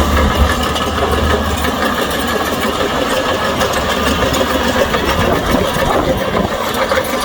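Heavy diesel engine of earthmoving machinery running steadily, with a strong low rumble for the first couple of seconds that then eases off.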